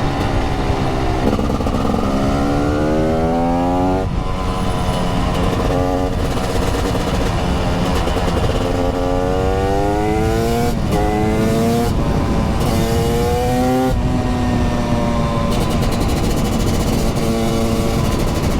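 TM SMR 300 supermoto's 300 cc two-stroke engine accelerating hard through the gears. Its pitch climbs four times, each climb ending in a sudden drop at a gear change, then it holds a steady note for the last few seconds, under a constant low rush.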